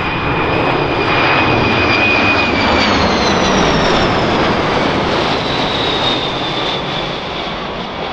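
Boeing E-4B (747-200) flying past with its four General Electric CF6 turbofans running loud. A high whine over the jet noise drops in pitch about three seconds in as the aircraft passes, and the sound eases slightly near the end.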